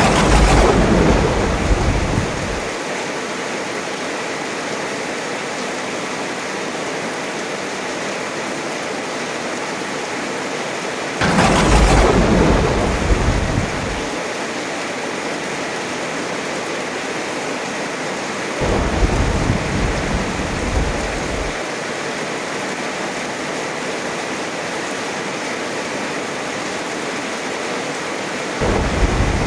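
Heavy rain falling steadily, broken by claps of thunder. A sharp crack at the very start rolls away over a couple of seconds, and another comes about a third of the way through. A duller, lower rumble follows past the midpoint, and a fourth peal begins near the end.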